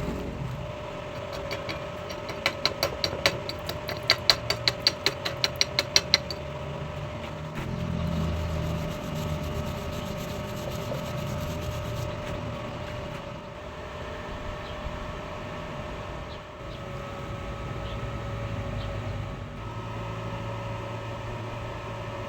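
A quick run of sharp taps, about three or four a second, lasting some five seconds, over a steady machine hum that carries on alone afterwards.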